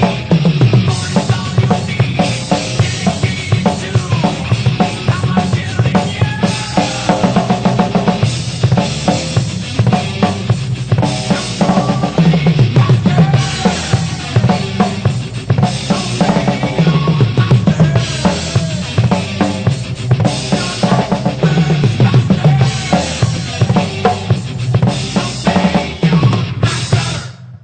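Drum kit played hard and fast with heavy bass drum, snare and rimshots, along to a heavy-metal recording.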